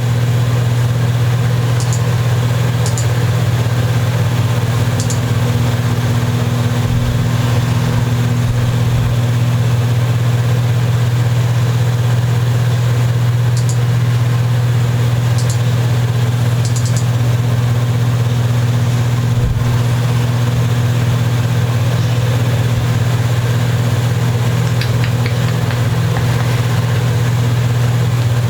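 Steady low machine hum, unchanging throughout, with a few faint light clicks.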